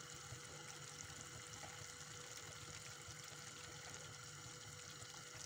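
Faint, steady sizzle of diced chicken breast cooking down in its own juices in a frying pan, under a faint steady hum.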